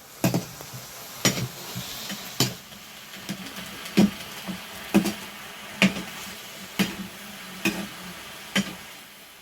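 Food frying in a pan with a steady sizzle, while a spoon or ladle stirs it and knocks against the pan about once a second.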